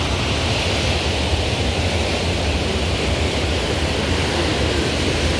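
Waterfall or rushing torrent: a loud, steady rush of falling water with a deep rumble underneath.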